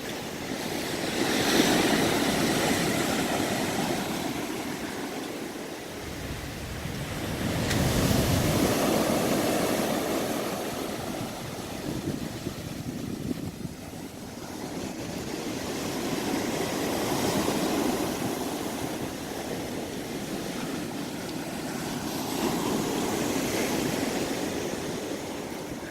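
Ocean waves breaking and washing in, the surf swelling and falling away in four slow surges several seconds apart.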